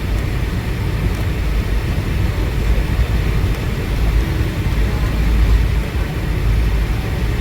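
Steady low rumble and rush inside the cabin of a Boeing 757-200 with its engines running on the ground before departure.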